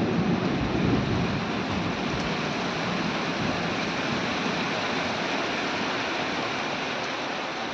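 Thunder rumbling away and fading over the first couple of seconds, leaving a steady downpour of heavy rain.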